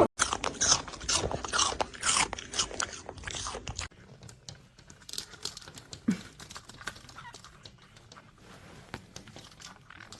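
An animal chewing and crunching something, in quick, irregular crisp crackles. About four seconds in the crunching cuts off, leaving a quieter stretch of scattered faint clicks.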